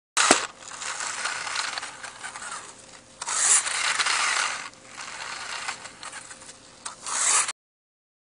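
Friction-motor toy tractor's gears whirring and rattling as it is pushed and runs on under its own power. There are louder spells at the start, about three seconds in and near the end, and the sound cuts off suddenly.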